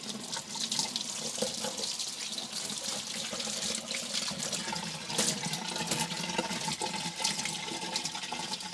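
Tap water running into a sink and splashing as a vacuum cleaner filter is rinsed under it.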